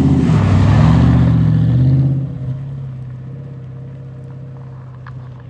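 Ford Mustang GT's 4.6-litre two-valve V8 through an SLP Loudmouth cat-back exhaust, rising in pitch under acceleration for about two seconds. It then drops suddenly to a steadier, quieter drone that slowly fades.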